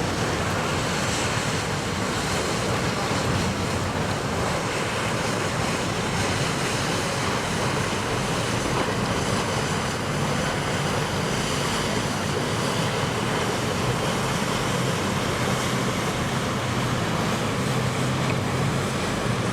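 Steady rush of waves and wind noise on the microphone, with a low, steady drone from boat engines underneath.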